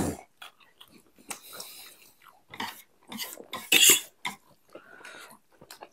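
Close-miked eating sounds: chewing and biting with many short, wet mouth clicks, and a louder hissing burst about four seconds in.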